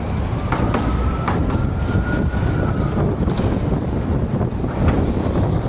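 Steady low rumble of wind and road noise while riding a bicycle, with a few sharp clicks and a faint high whine over the first three seconds.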